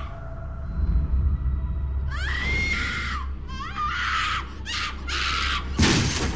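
A run of shrill screams, about five cries, starting about two seconds in over a low steady drone.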